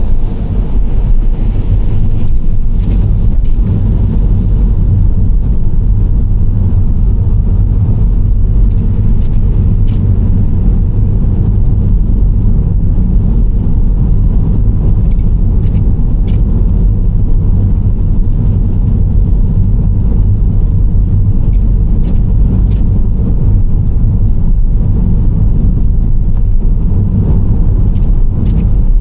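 Nissan Serena C25 minivan driving at steady speed: a continuous low rumble of engine and tyre road noise, with a few faint short ticks here and there.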